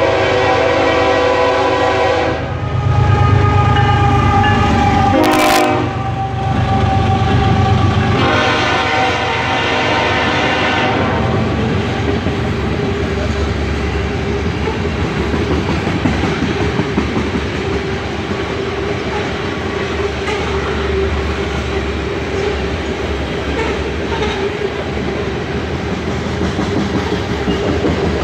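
BNSF freight train's multi-chime horn sounds three blasts in the first eleven seconds over the loud rumble of the passing train. After that, a long string of covered hopper cars rolls by with a steady rumble and clickety-clack of wheels on rail joints.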